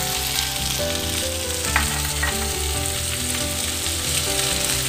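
Sliced okra and freshly added chopped onions sizzling in hot oil in a steel pot, with a wooden spoon stirring them: a steady frying hiss.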